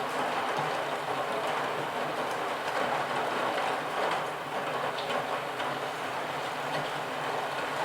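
Steady rain: a dense, even hiss of falling water with a few scattered drop ticks.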